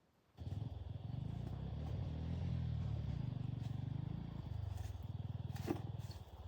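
A small engine starts sounding abruptly about half a second in and runs steadily with a fast, even firing beat, with one sharp click near the end.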